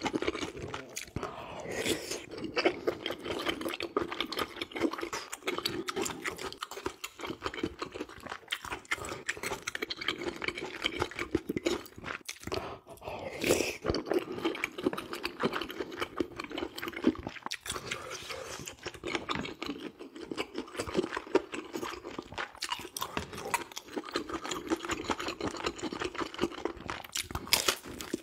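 Close-miked chewing of mouthfuls of spicy oyster ramen eaten from a large spoon: wet, irregular chewing and mouth clicks throughout.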